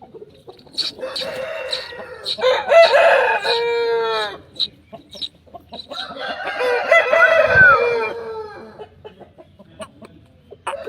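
Aseel roosters crowing: two long crows, one starting about a second in and ending in a drawn-out falling note, the other about six seconds in, with short clucks between them.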